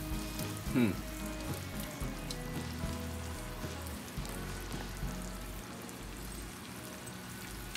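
Brown sugar syrup boiling around plantain chunks in a frying pan, sizzling and bubbling steadily.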